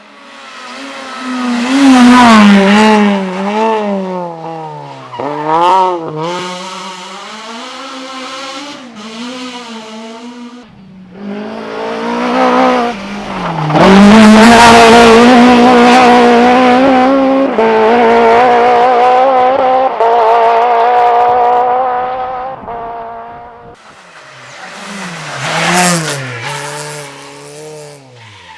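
Race car engines revving hard, their pitch rising and dropping through gear changes, with tyre squeal. The sound changes abruptly several times as it jumps between different runs, and it is loudest about two seconds in and again around the middle.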